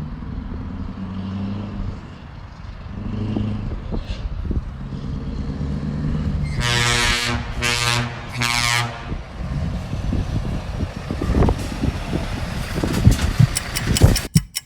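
Truck air horn blown three times in quick succession over a running diesel engine. About a second before the end, a run of fast, sharp clicks begins.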